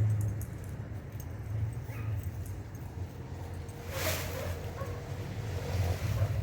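A dog yipping and whimpering in short calls over a steady low rumble, with a brief rush of noise about four seconds in.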